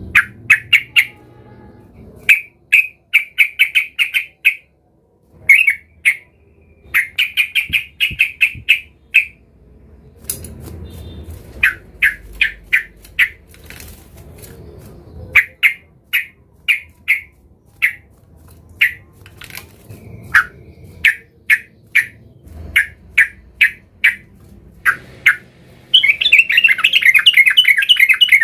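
Yellow-vented bulbul calling in runs of short, quick repeated notes with brief pauses between them, ending in a dense, unbroken stretch of chattering near the end.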